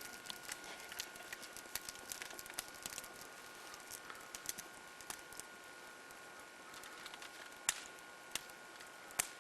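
Campfire crackling faintly, with irregular sharp pops over a steady hiss.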